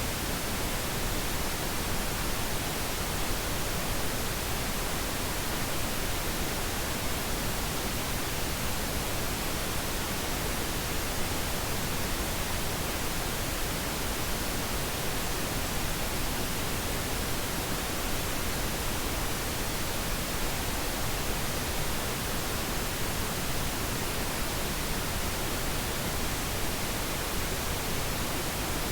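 Steady, unchanging pink noise, an even hiss spread across all pitches, played as a sleep aid.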